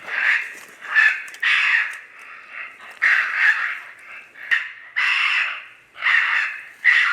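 Raccoon squaller call blown in a run of harsh, raspy squalls imitating a raccoon fight or distress, about one a second, to lure raccoons in.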